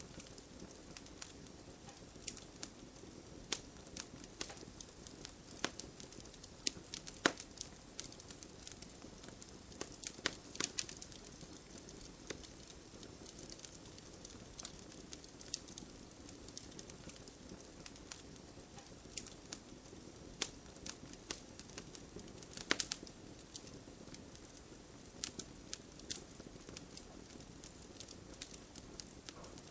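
Wood bonfire crackling, with irregular sharp pops and snaps over a steady soft hiss of rain.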